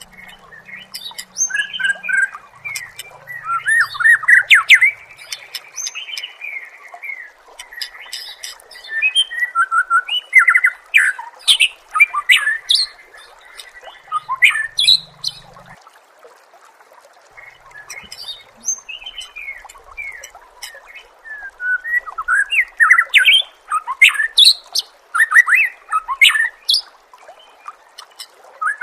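White-rumped shama singing: bouts of rapid, varied whistles and sweeping trills, broken by pauses of a few seconds, over a steady hiss.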